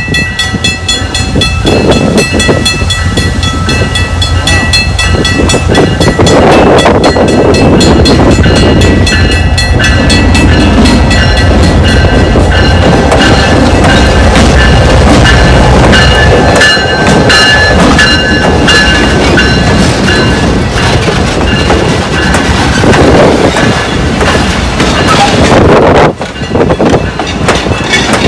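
Diesel locomotive rumbling slowly past close by, followed by passenger coaches rolling by. A bell rings with evenly repeated strokes through the first half.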